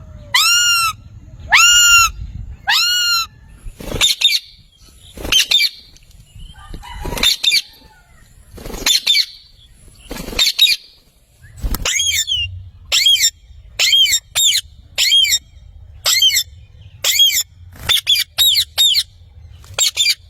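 Pet parrot calling over and over in loud, harsh squawks. Each call rises and falls in pitch. The calls come about once a second at first, then shorter and quicker, around two a second, from about twelve seconds in.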